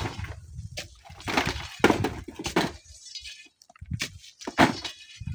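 A series of irregular crashing, crunching impacts, about five in a few seconds, with a low rumble under the first half.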